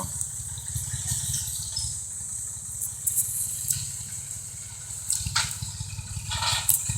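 Tractor engine running steadily under load as it works a homemade dragline, with water and mud sounds from the bucket. Two short sloshing or scraping noises come about five and six and a half seconds in.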